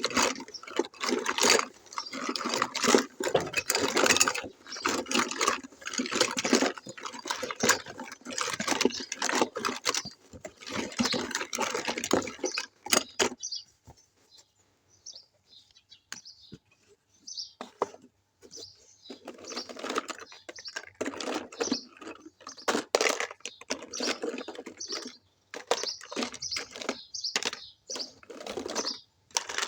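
Plastic toy kitchen pieces and their packaging being handled during unboxing: rapid crinkling, rustling and small plastic clicks, with a quieter stretch of faint ticks about halfway through before the handling picks up again.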